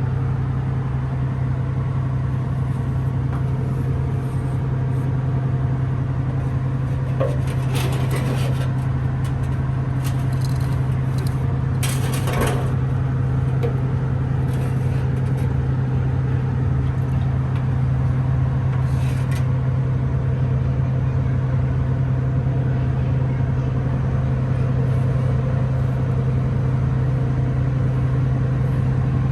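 A motor running steadily with a constant low hum, with a few brief scraping or clattering noises about 8, 12 and 19 seconds in.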